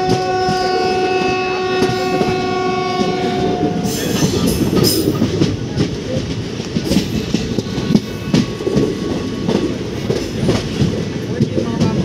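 An Indian Railways train horn holds one long, steady blast that cuts off about four seconds in. After that, the moving train's wheels clatter over the rail joints.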